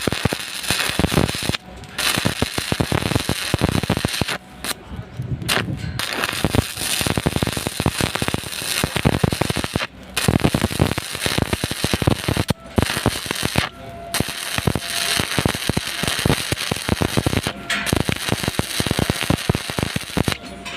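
Stick (SMAW) welding arc crackling and sizzling, cutting out briefly about seven times and starting again.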